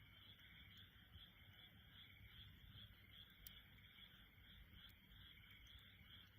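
Faint chorus of frogs calling, a steady pulsing trill, with a couple of sharp crackles from the wood fire.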